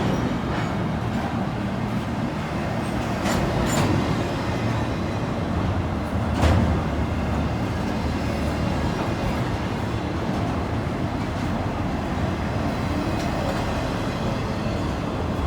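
Freight train rolling past at close range: a steady low rumble of wheels on rail, with a few sharp clanks from the cars.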